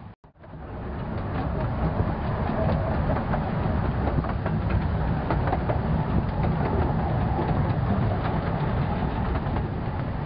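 Narrow-gauge light railway train running, with a steady rumble and a scatter of light clicks and clatter from the wheels and carriages. Just after the start the sound cuts out for a moment.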